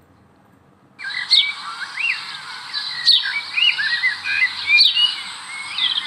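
Stock 'Birds chirp' sound effect: many birds chirping and whistling over a steady hiss, starting about a second in.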